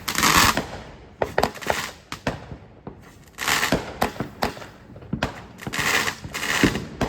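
Fireworks going off: a run of sharp bangs and cracks, with hissing bursts near the start, about halfway through and about a second before the end.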